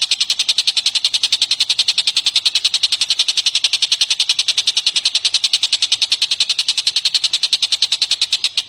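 A songbird giving a long, rapid trill of identical high notes, about ten a second, held steady and unbroken.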